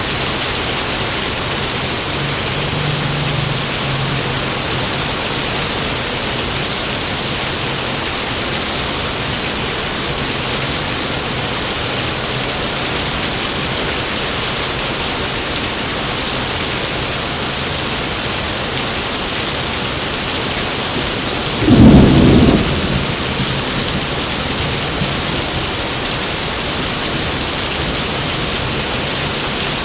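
Heavy rain pouring in a steady hiss. About two-thirds of the way through comes one sudden loud clap of thunder that fades into a short rumble, and there is a fainter low rumble near the start.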